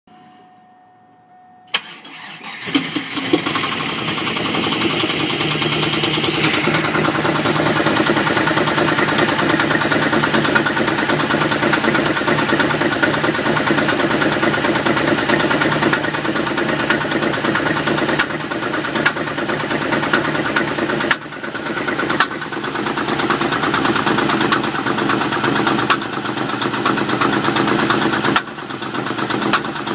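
Pontiac Trans Am WS6's LS1 V8 is started: a faint steady tone, a click and a brief crank, then it catches. It settles into a steady idle after a high-pitched whine fades out a few seconds in. The engine is being run to catch an irregular clang or knock.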